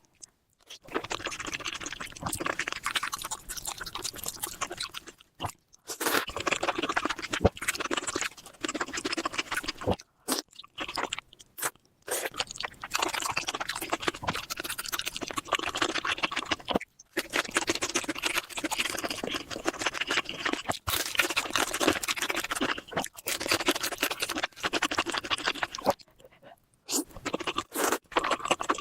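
Close-miked eating: a person chewing and crunching mouthfuls of Indian curry with rice, with wet, clicking mouth noises. It comes in several stretches broken by brief silences.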